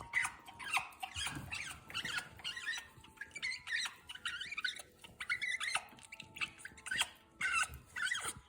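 African grey parrot chattering: a quick run of short squeaks, chirps and whistles with a few sharp clicks mixed in.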